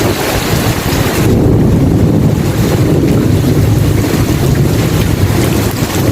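Steady rain hiss with a long, deep thunder rumble that swells about a second in and carries on, drowning out the higher patter.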